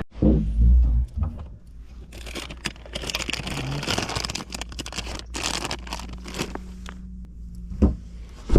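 Wind rumbling on the microphone over a steady low motor hum, with rustling and scraping handling noise.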